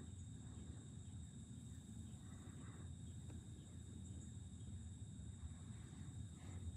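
Faint outdoor evening ambience: a steady high-pitched insect chorus over a low rumble, with a few soft rustles.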